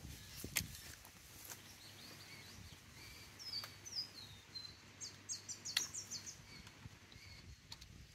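Quiet outdoor background with a bird calling in a run of short, falling chirps about halfway through, and a couple of sharp clicks as solar panel cable connectors are handled and plugged together, the loudest about six seconds in.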